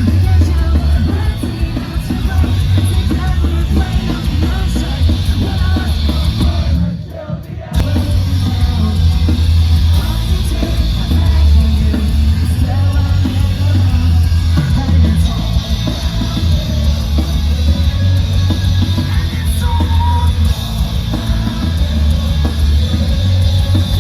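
A live rock band playing loudly, with heavy, booming bass and sung or yelled vocals, recorded from within the crowd. The music drops away briefly about seven seconds in, then comes back.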